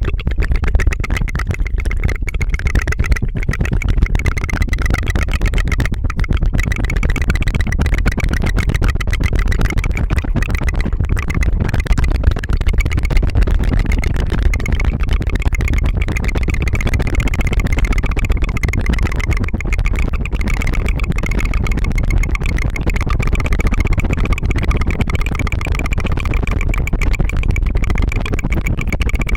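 Rapid, unbroken tongue fluttering (a rolled-tongue trill) close to the microphone: a fast, steady buzzing flutter.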